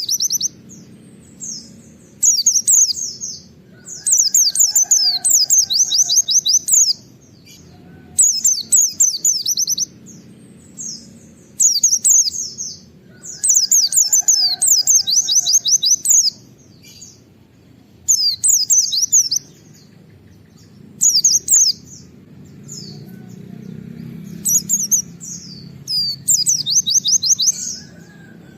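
Pleci (white-eye) singing its fast 'wit wit' shooting song: bursts of rapid, high, sliding notes, each lasting a second or two and repeated every few seconds, over a faint steady low hum.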